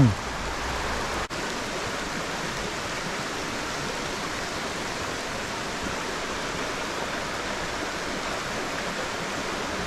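Flowing stream water rushing steadily, with a momentary dropout just over a second in.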